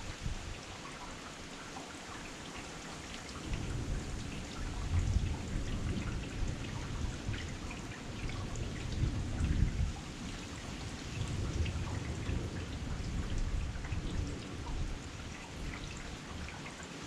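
Heavy rain falling steadily, with many individual drops striking close by, and a low rumbling that swells and fades several times.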